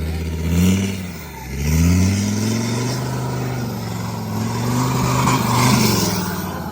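Hino J07E turbo-diesel engine of a dump truck revving hard: it climbs, drops back about a second in, then revs up again and is held high under load before easing off near the end.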